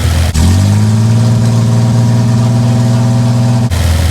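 Chevrolet Opala engine with a loud exhaust, running at a rumbling idle, then revved up a third of a second in and held at a steady speed for about three seconds before the sound cuts back suddenly to the idle rumble.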